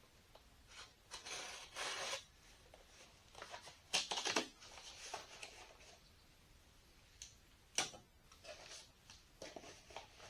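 Packaging of a fuel tank mounting kit being rustled and opened by hand, in short bursts of crinkling and tearing, with a couple of sharp clicks from parts being handled, one about four seconds in and one near eight seconds.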